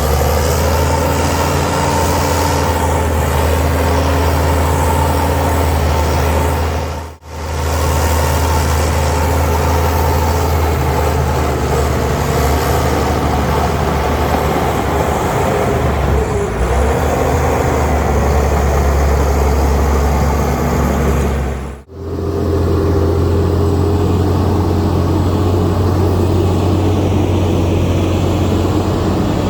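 Heavy diesel earthmoving machinery running steadily under load, a deep engine drone. It cuts out sharply twice, and the drone's pitch changes after the second break.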